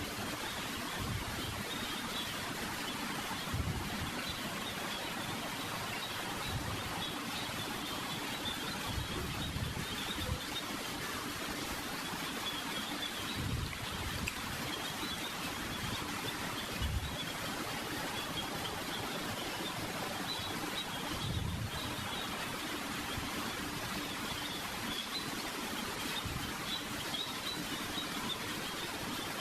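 Steady background hiss of room and recording noise during a silent pause, with faint scattered low thumps.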